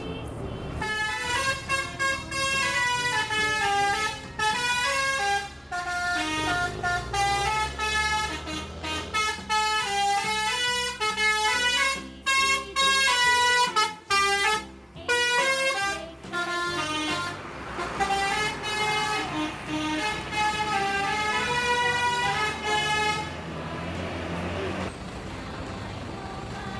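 A truck's telolet horn, a set of musical air horns, playing a stepping melody of short and held notes with brief breaks. It stops near the end, leaving the steady low rumble of the vehicle.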